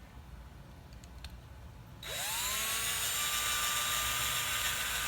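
A small electric drill with a skinny bit is quiet at first with a few faint clicks. About two seconds in it spins up with a rising whine, then runs steadily at a high pitch, drilling a small hole through a die-cast metal toy car body.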